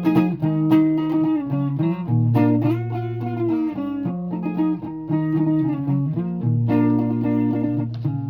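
Guitar playing a run of plucked notes over lower notes, with a bent, wavering note about three seconds in.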